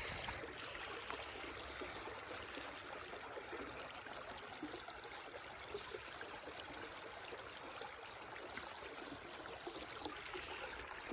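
Creek water running and trickling, a faint steady rush, with a few light clicks.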